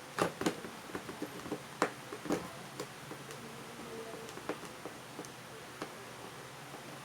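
Irregular light clicks and taps of small parts and tools being handled, several close together in the first two and a half seconds, then sparser.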